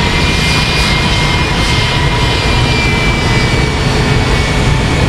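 Jet engines of a WestJet Boeing 737 at takeoff thrust, heard from directly behind the aircraft: a steady, loud roar with high whining tones over it. The jet blast rumbles hard on the microphone.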